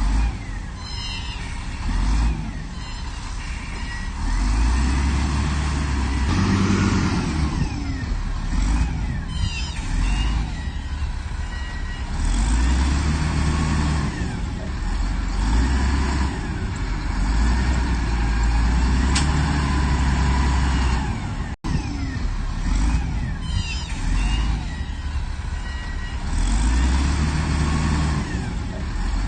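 Heavy earthmoving machinery working: a diesel engine rumbling under load, swelling and easing every few seconds, with high squeaks and creaks over it. The sound drops out for an instant about two-thirds through.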